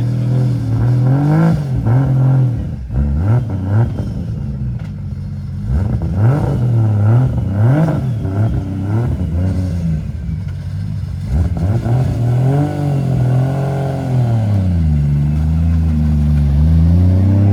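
Drift car's engine blipped over and over, its pitch jumping up and dropping back roughly every second. Later it turns into slower, longer rises and falls in revs.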